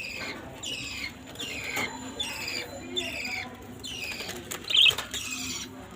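A pet bird calling over and over, about one and a half calls a second, each a short note falling in pitch. A brief, louder sharp call comes about three-quarters of the way through.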